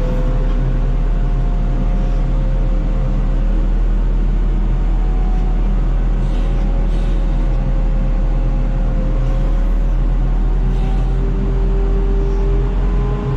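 A heavy engine running steadily with a strong low hum, and a whine that drifts slowly in pitch, as a lifting machine moves a load.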